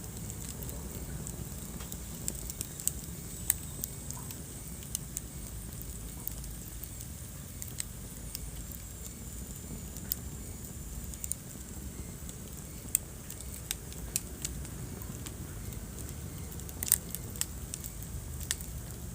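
Wood fire crackling in a fireplace: a steady low rumble of burning with scattered sharp pops and snaps, a few louder ones standing out, the loudest near the end.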